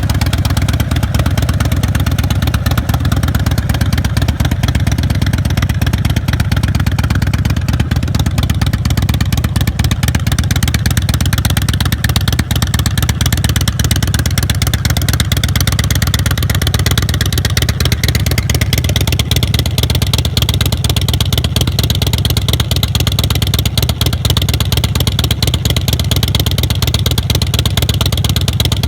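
A 2005 Big Dog chopper's 117 cubic inch S&S carbureted V-twin, running steadily through a Supertrap exhaust.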